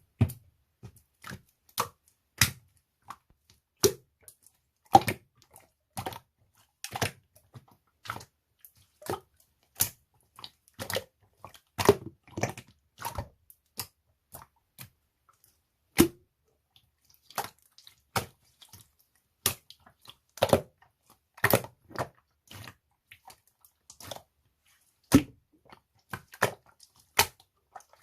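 Slime being worked, making irregular sticky clicks and pops, about one or two a second with quiet gaps between.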